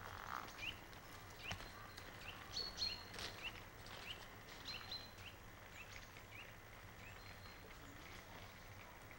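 Small birds chirping in short rising calls with a few brief thin whistles, busiest in the first half, over a faint steady outdoor hiss. One sharp click about a second and a half in.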